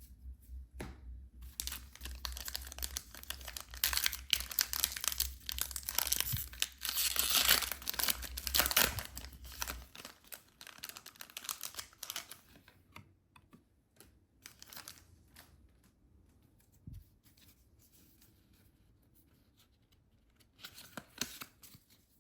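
Packaging being torn open and crinkled by hand: a dense stretch of tearing and rustling that is loudest in the middle, then thins to occasional softer rustles, with one more short burst near the end.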